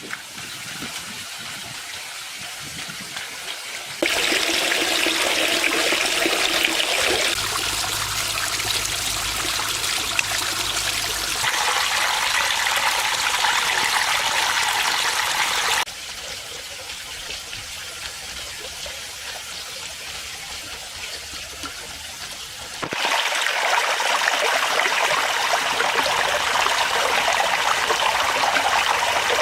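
Water splashing and trickling steadily, as from a small garden pond waterfall, its loudness jumping abruptly up and down a few times. A low hum runs underneath for a few seconds in the first half.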